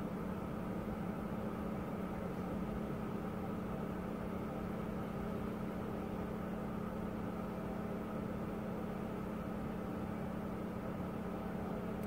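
A car engine idling outside, a steady, even hum.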